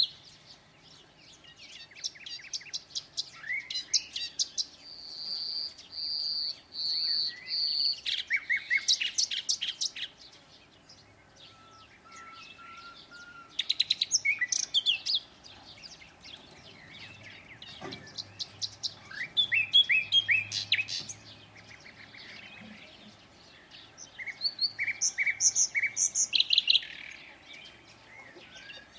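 Songbirds singing in repeated phrases of fast, high chirps and trills a few seconds apart, some phrases carrying a held high note.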